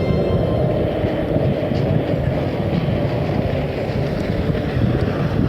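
Racing boats' two-stroke outboard engines running at speed in a kyotei race, a loud steady rumble that changes little over the few seconds.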